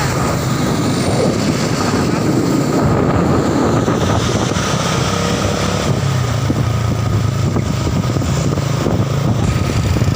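Diesel truck engine running steadily, its low hum shifting slightly in pitch about six seconds in.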